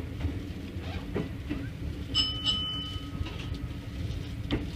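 Keikyu 1500 series electric train running slowly into a terminal platform, heard from the cab: a steady low rumble with scattered wheel clicks. A brief high ringing tone sounds about two seconds in.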